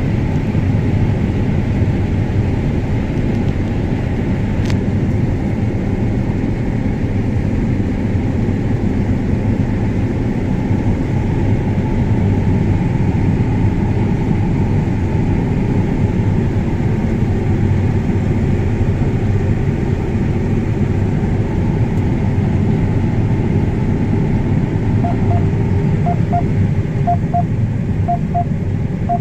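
2017 John Deere S680 combine running steadily under load. Near the end, a series of short electronic double beeps sounds over the engine, about one pair a second.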